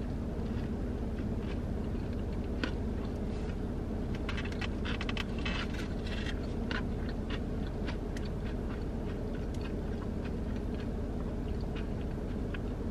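Eating sounds: chewing of chicken wings and fries, with scattered small clicks and scrapes of a fork picking food from the takeout tray, mostly in the first half, over a steady low hum.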